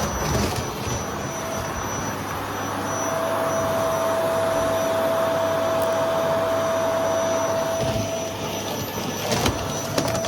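Household vacuum cleaner running steadily with a whine, and a couple of sharp knocks near the end.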